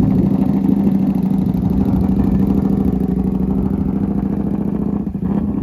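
A car engine running steadily through its exhaust with a constant low hum, slowly getting quieter.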